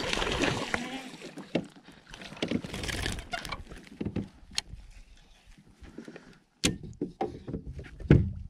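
Water splashing around a kayak for the first few seconds, then a series of sharp knocks and thumps on the kayak, with two louder ones late on.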